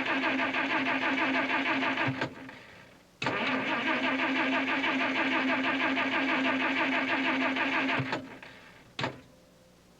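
Car engine running steadily. It dies away about two seconds in, starts up again abruptly about a second later, and fades out again near the end.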